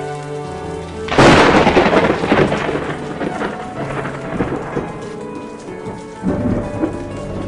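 A sudden crack of thunder about a second in, rumbling away over several seconds, with a second, smaller rumble near the end, over steady rain. Soft background music runs underneath.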